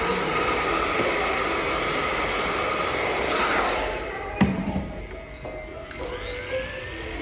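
Handheld hair dryer blowing steadily, then switched off about four seconds in with a click, leaving quieter shop noise and a rising whine near the end.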